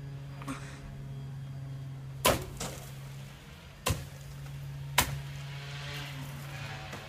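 A steady low hum with three sharp knocks, about two, four and five seconds in.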